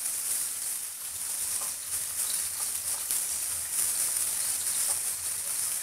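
Whole prawns sizzling steadily in hot rice bran oil in a nonstick frying pan as they are turned over with tongs.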